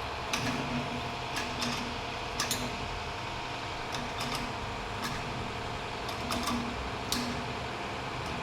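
Irregular light mechanical clicks and taps, roughly one a second and sometimes in quick pairs, over a steady low hum.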